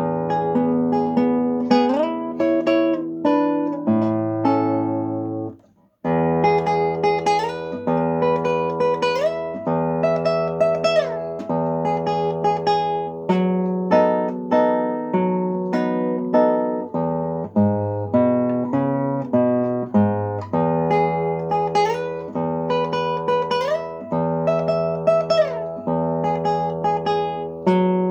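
Solo acoustic guitar playing a melodic piece of plucked notes, with several notes sliding up in pitch. The playing breaks off for a moment about five and a half seconds in, then resumes.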